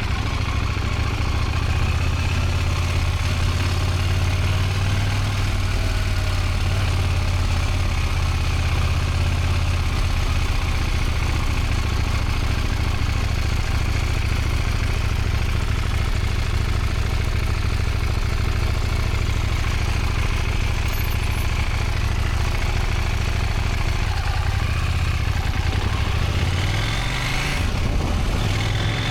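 Motorcycle engine running steadily at low speed, with its pitch rising briefly near the end as the throttle is opened.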